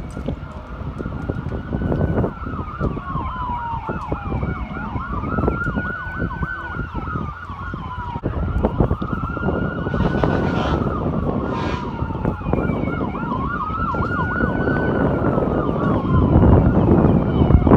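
Emergency vehicle siren sounding a slow rising-and-falling wail, about one cycle every four seconds, with a faster warbling tone over it, over a low rumble. It grows louder toward the end as it approaches, and two short hissing bursts come about ten and eleven seconds in.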